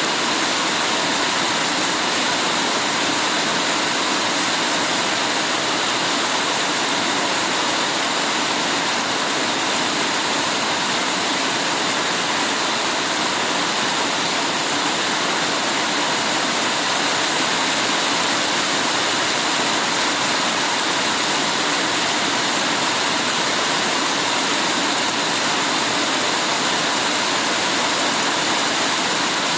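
Heavy rain falling steadily, a dense even hiss of water with no breaks or single drops standing out.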